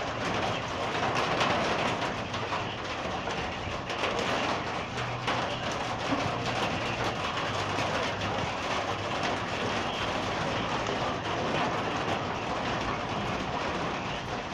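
Marble-sized hail falling, a steady dense patter of many small hits.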